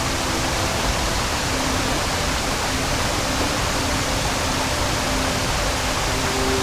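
Rushing mountain-stream water, a steady dense rush with no breaks.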